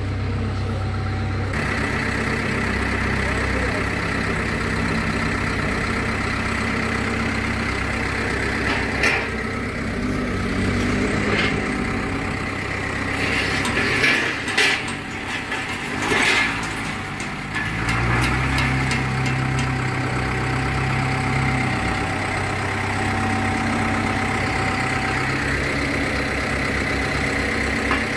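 Engine running steadily, with a few sharp knocks around the middle and a change in its low note about two-thirds of the way through.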